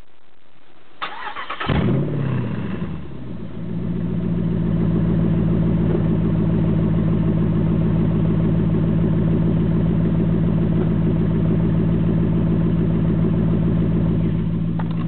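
2006 Jeep Grand Cherokee SRT8's 6.1-litre HEMI V8 cranked by the starter about a second in. It catches with a short rev flare, then settles into a steady, deep idle through the aftermarket Magnaflow muffler and DMH exhaust cutouts.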